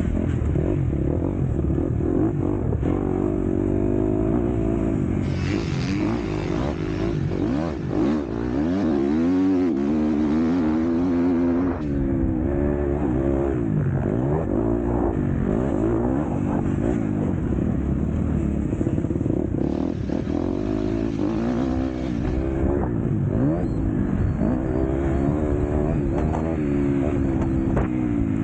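Motocross bike engine running hard, its pitch rising and falling over and over as the throttle is opened and closed.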